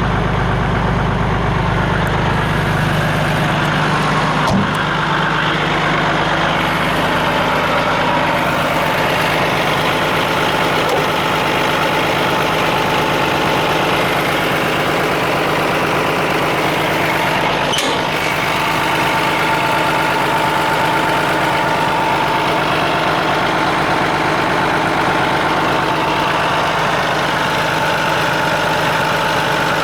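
Renault 110-170 4x4 fire truck's diesel engine running steadily at an even speed, with no revving. Its low drone eases a little about three seconds in.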